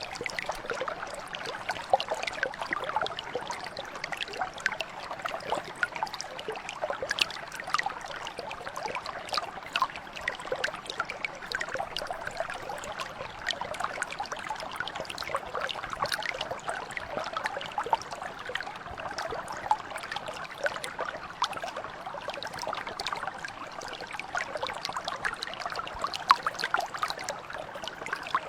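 Mountain brook flowing steadily, water splashing and trickling over stones with many small bright drips and splashes.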